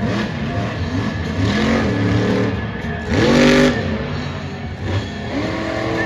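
Monster truck's 1,500-horsepower supercharged alcohol-burning engine revving hard again and again, pitch rising and falling, with the loudest rev about halfway through.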